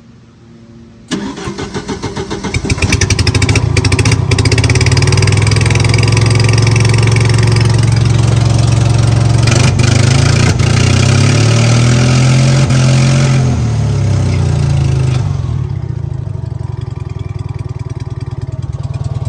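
Bobcat 732 skid steer's gasoline engine cranking briefly about a second in, then catching and running loud at high throttle. It settles to a lower, steadier speed about fifteen seconds in, running as it should.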